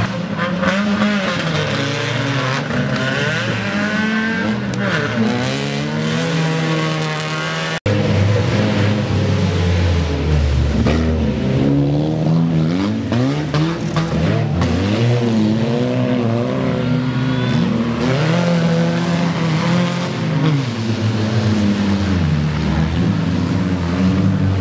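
Several old race cars' engines revving, their pitch rising and falling over one another as they race around a track. The sound breaks off abruptly about eight seconds in, then picks up again.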